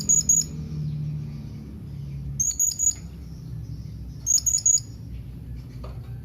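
Blue-crowned hanging parrot (serindit) giving its calling-a-companion contact call: short bursts of four or five very high, thin chirps, repeated about every two seconds over a low steady hum.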